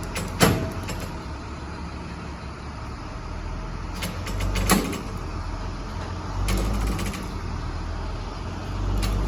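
A motor vehicle's engine running, with three brief swells of throttle as it takes up the pull. Two sharp knocks come about half a second in and near the middle.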